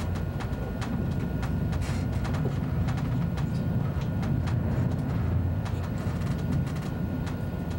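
ICE high-speed train running, heard on board: a steady low rumble with frequent short clicks and rattles spread unevenly through it.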